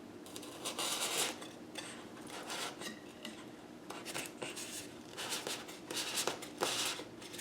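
Bamboo skewers being worked into polystyrene foam cake dummies: irregular scratchy rubbing and scraping strokes.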